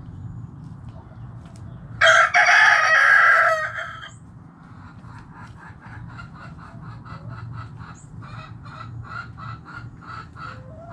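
A rooster crows once, loud, about two seconds in, lasting under two seconds. Then a hen clucks in a steady run of short notes, about three a second.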